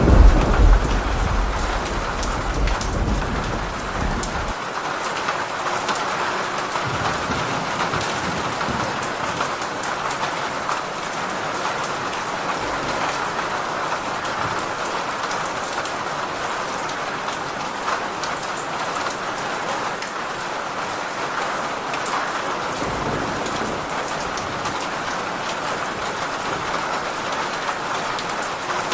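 Steady heavy rain falling, with a low thunder rumble that fades out about four seconds in.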